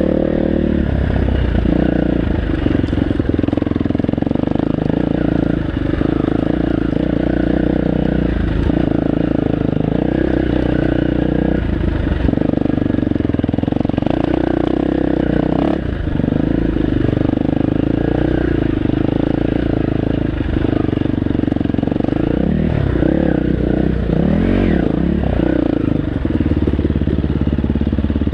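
Dirt bike engine running steadily under way, with the revs rising and falling in quick swings near the end.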